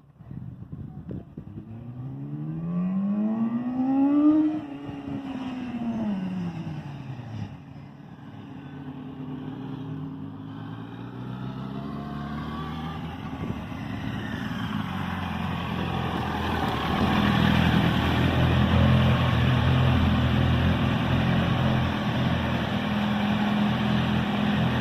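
Yamaha R1 inline-four engine revving up, its pitch climbing about a second in to a peak a few seconds later, then falling away. The engine then runs on, growing steadily louder before it settles into a steady note.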